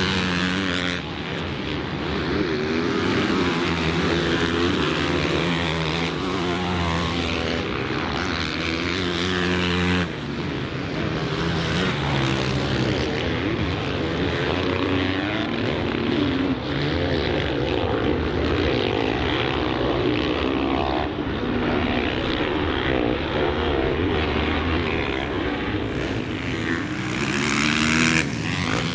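Motocross bike engine revving hard and falling off again and again as it is ridden around a race track, with a few abrupt changes in the sound.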